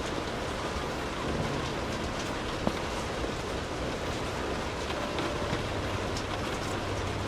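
Steady rainfall: an even hiss with scattered louder drop hits, over a low rumble.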